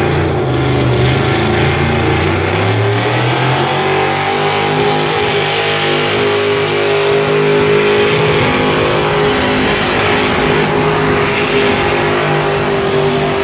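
Naturally aspirated engine of a four-wheel-drive pulling truck with a 1978 Ford F100 body, run at full throttle under load during a pull. Its pitch climbs over the first few seconds, then holds high and steady.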